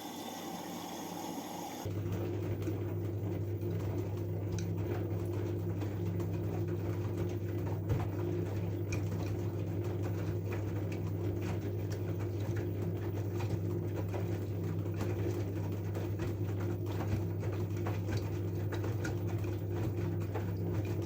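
LG F12A8ND front-loading washing machine running with a steady low hum and light crackling of water. The hum sets in firmly about two seconds in and cuts off abruptly at the end.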